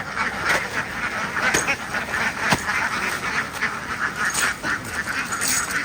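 A large flock of domestic ducks quacking in a dense, continuous chorus, with one sharp knock about two and a half seconds in.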